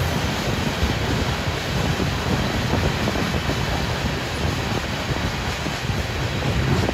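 Freight train of coal hopper cars rolling past: steady rolling noise of steel wheels on the rails.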